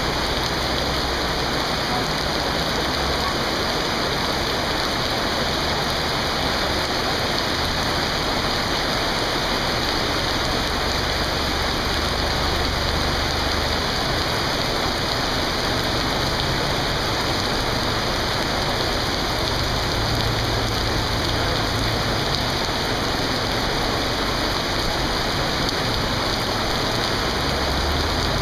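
Heavy monsoon rain pouring steadily onto a flooded road, a constant loud hiss. A low engine hum rises under it at times as vehicles drive through the floodwater.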